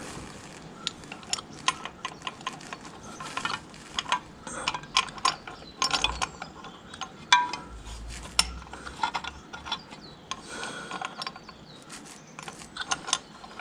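Small metal parts of the Fordson Major's brake stop and parking latch clinking, tapping and scraping irregularly as they are worked into place by hand. A louder knock comes about seven seconds in.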